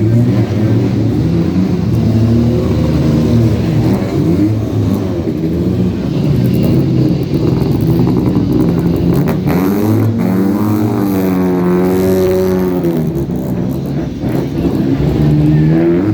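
Sports car engines running and revving as the cars drive by one after another, their pitches overlapping and rising and falling. About ten seconds in, one engine climbs in pitch, holds, then falls away as it passes.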